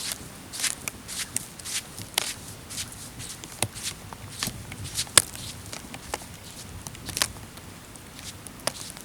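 Footsteps on a forest floor: irregular crisp cracks and crunches, roughly one or two a second, some louder than others.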